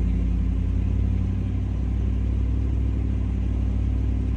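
Pickup truck engine running steadily at low revs with a low rumble, its pitch and level holding even.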